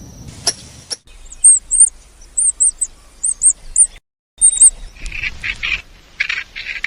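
Bird calls: short, high chirps, mostly in pairs, repeating for a few seconds, then lower, harsher calls in quick succession near the end.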